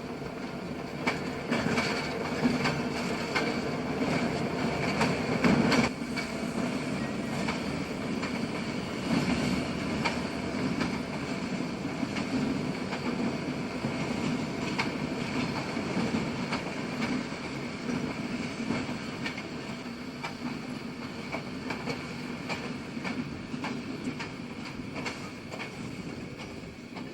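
A diesel-hauled local freight train rolling past. Its engines rumble steadily while the wheels click over the rail joints in an irregular run, a little louder about five seconds in and easing off near the end.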